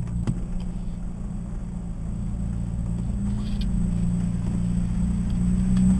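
Jeep Wrangler engine and road noise while driving, a steady low hum that climbs slightly in pitch and grows louder over the second half.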